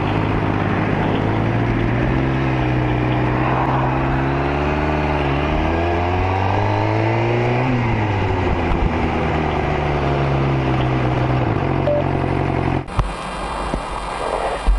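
Motorcycle engine running while riding, its note rising and falling with the throttle. The sound changes abruptly about thirteen seconds in.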